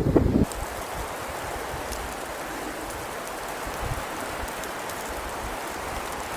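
A steady, even hiss of rain-like noise, with a few faint ticks. A louder rumble of wind on the microphone cuts off about half a second in.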